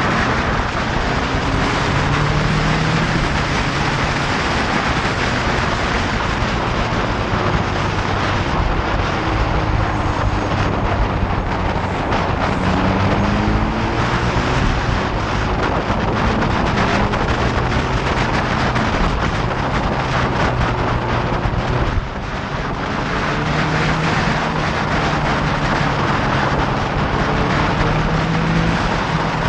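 Motorcycle being ridden at speed: heavy wind rush on the microphone over the engine, whose pitch rises and falls as it accelerates and changes gear, easing off briefly about two-thirds of the way through.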